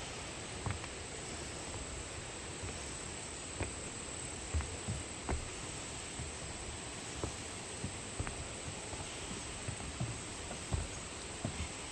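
Steady rush of a mountain stream, with a thin, steady, high insect drone over it and irregular soft thumps of footsteps.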